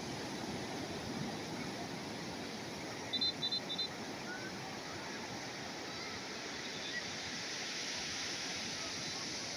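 Calm sea waves washing onto the shore, a steady surf noise. A little over three seconds in come three short, high-pitched chirps in quick succession.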